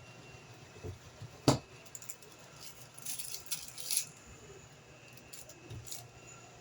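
Small hard objects being handled: a sharp knock about a second and a half in, then a couple of seconds of light clicking and rattling, and a softer knock near the end.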